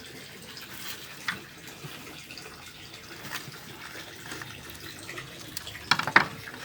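Steady hiss like running water, with a few light clicks and a cluster of sharp knocks about six seconds in.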